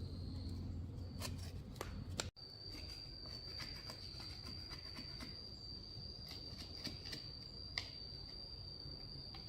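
A cricket or similar insect trills steadily at a high pitch, starting after a sudden break about two seconds in. Scattered light clicks and taps of small handling sounds run throughout, with a low hum before the break.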